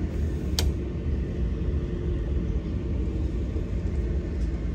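Steady low rumble of a moving passenger train carriage on the rails, heard from inside the compartment, with one short click about half a second in.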